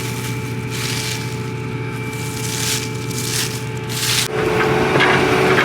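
John Deere combine running steadily while harvesting soybeans, a constant machine hum with a hiss that comes and goes. About four seconds in the sound changes abruptly and gets louder.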